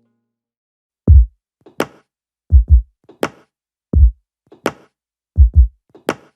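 Gap between songs: about a second of silence, then a bare drum-machine beat opens the next song. Deep kick drums, sometimes in pairs, alternate with sharp snare or clap hits, about one hit every half second.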